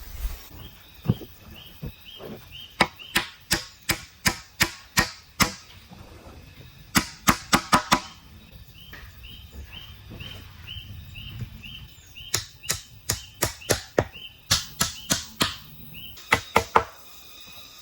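Bamboo being chopped with a blade: runs of sharp knocking strokes, about two a second, with pauses between the runs. A high chirp repeats steadily in the background.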